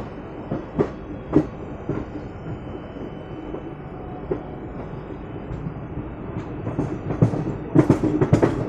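Express passenger train running, heard from inside a coach: a steady rumble with irregular clacks of the wheels over rail joints. A quick run of louder clacks comes near the end.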